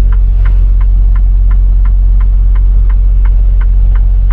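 Semi-truck diesel engine rumbling steadily, heard inside the cab, with the turn signal ticking evenly about three times a second.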